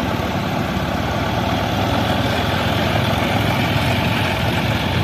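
Heavy diesel engine of earth-moving machinery running steadily with a fast, even pulse, growing slightly louder about two seconds in.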